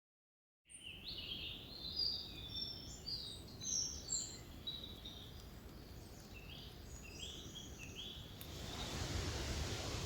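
Songbirds singing, many short overlapping chirps and trills over a low rumble, starting out of silence about a second in. Near the end the birdsong gives way to a steady rushing hiss.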